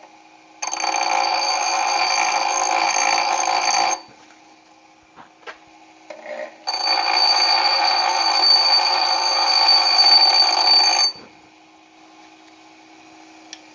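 Electric grinder sharpening an axe blade: two long grinding passes with a high, steady whine, the first about three seconds long, the second about four seconds starting halfway through, with the motor humming in between.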